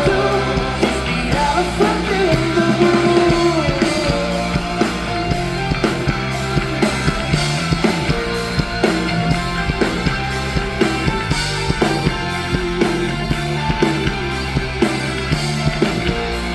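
Live rock band playing loudly, with a steady drum beat of about two hits a second.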